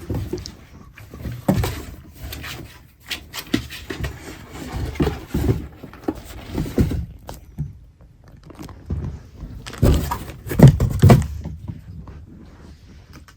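A kitten scuffling and moving about close to the microphone, making irregular scrapes, rustles and soft thumps, with the loudest run of bumps about ten to eleven seconds in.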